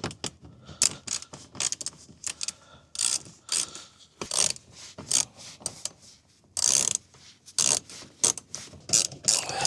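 Ratchet wrench with a 10 mm socket clicking in short, irregular runs, backing out fasteners on a car's inside door handle and panel.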